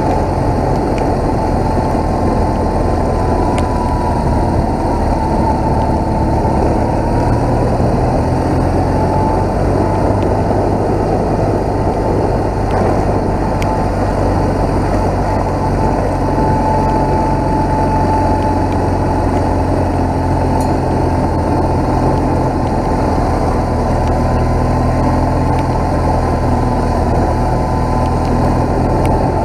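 BMW R1200GS boxer-twin engine running steadily under way, over a steady rushing noise.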